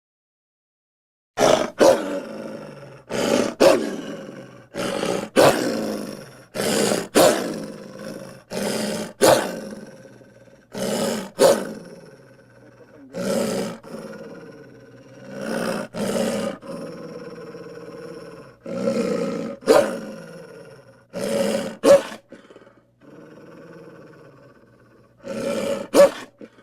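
A series of home-made cartoon hamster sound effects: about a dozen short, pitched animal-like cries, often in pairs, coming every second and a half to two seconds. Each starts and stops abruptly, with a pause of about two seconds near the end.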